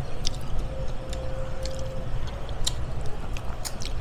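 Eating by hand: scattered short, wet mouth clicks and lip smacks from chewing fried tilapia, over a steady low rumble.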